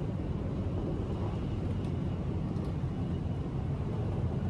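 Steady low rumble of a Shinkansen bullet train running, heard inside the carriage, with a faint steady high whine over it.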